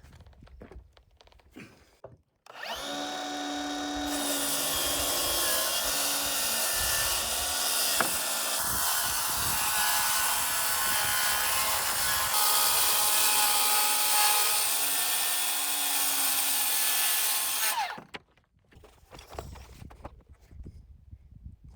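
Circular saw cutting through the overhanging edge of subfloor sheathing in one long, steady cut of about fifteen seconds, its motor whine falling away as it stops. Light taps and knocks before and after.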